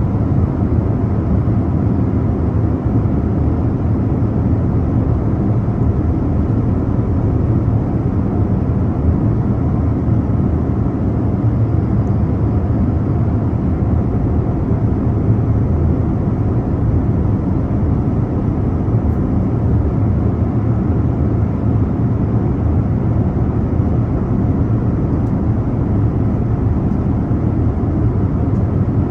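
Steady low roar of an airliner in flight, heard inside the passenger cabin: engine and air noise, even and unchanging.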